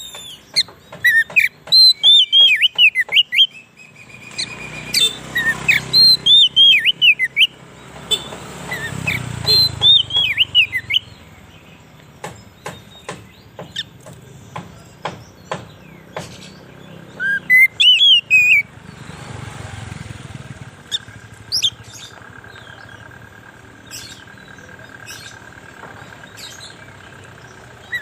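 Oriental magpie-robin (kacer) singing in several loud bursts of quick, high whistled phrases, with sharp ticking calls in between. A low rumble runs under the song for several seconds in the first half and again briefly later.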